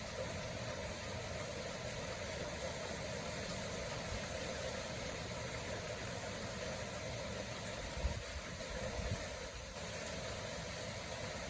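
Steady mechanical hum like an idling engine, with a couple of faint bumps about eight and nine seconds in.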